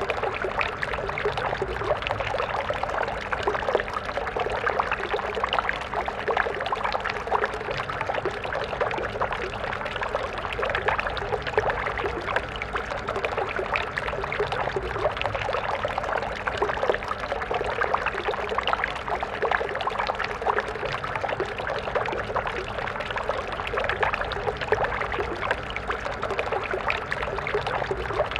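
Water stream flowing steadily, a continuous splashing babble of water over stones without pauses or changes.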